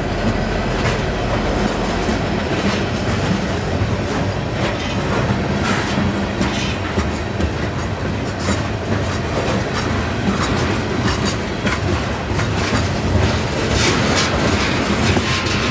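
Freight train of railway tank cars rolling past at close range: a steady rumble of steel wheels on rail, with irregular clicks and knocks from the wheels.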